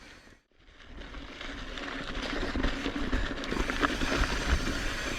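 Mountain bike riding over a dirt trail: steady tyre and wind noise with scattered rattles and clicks, starting after a brief dropout about half a second in.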